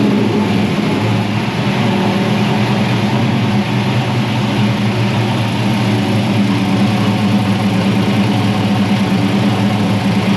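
Gasser V8 engine of a 1961 Ford truck running at a steady, fairly constant speed on a chassis dyno, loud and unbroken throughout.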